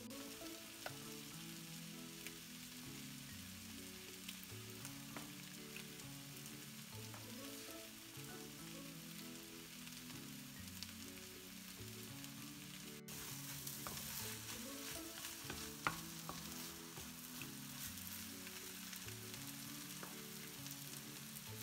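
Food sizzling as it fries in oil in a pan, with occasional clicks of a spatula being stirred against it. It gets louder about 13 seconds in. Faint background music plays underneath.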